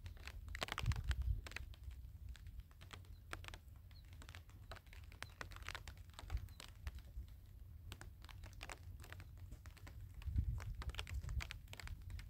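Wind buffeting the microphone as a low rumble that swells about a second in and again near the end, with scattered irregular clicks and taps throughout.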